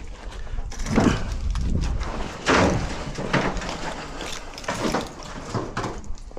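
Van door being opened: a few loud scrapes and knocks, the loudest about two and a half seconds in.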